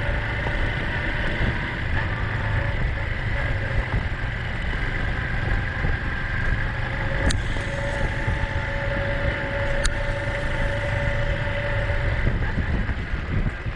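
Small single-cylinder Honda Cub motorcycle engine running under way, heavy wind rumble on the microphone, with two sharp clicks about seven and ten seconds in.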